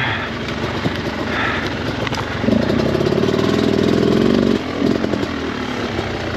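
Off-road dirt bike engine running, revved hard for about two seconds from roughly two and a half seconds in, then dropping back abruptly.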